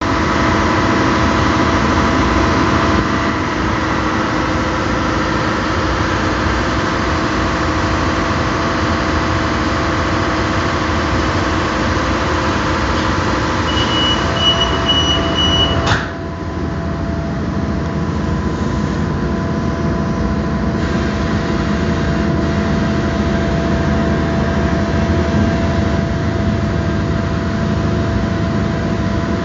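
Interior of a commuter train standing in a station: a steady hum of the train's onboard equipment, then about halfway through a rapid series of high warning beeps for about two seconds, ending in a sharp knock as the sliding doors shut. A quieter, lower rumble follows as the train pulls away.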